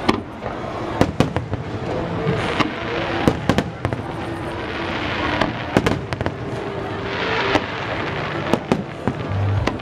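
Aerial fireworks shells bursting overhead: a quick, irregular series of a dozen or so sharp bangs over a continuous noisy din.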